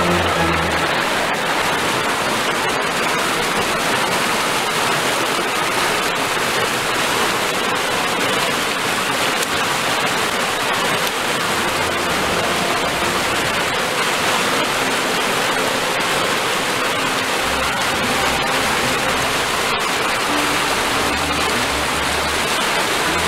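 Rushing stream water, a loud, steady rush that does not let up.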